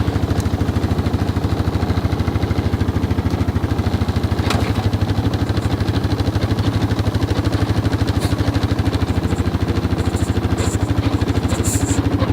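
Honda Foreman 500 ATV's single-cylinder four-stroke engine idling steadily with an even, fast pulse, still cold shortly after a cold start in freezing weather. A few faint light clicks come near the end.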